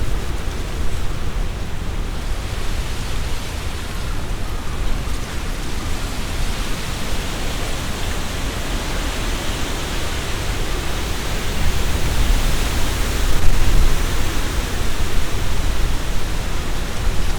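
Strong wind gusting through trees: leaves rustling in a steady hiss over a low rumble of wind against the microphone. A stronger gust swells about twelve seconds in.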